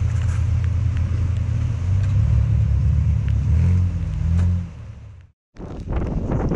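Strong wind buffeting the camera microphone, a heavy, unsteady low rumble. It cuts out abruptly near the end, then comes back as a rushing noise with scattered sharp ticks, as of rain striking the camera.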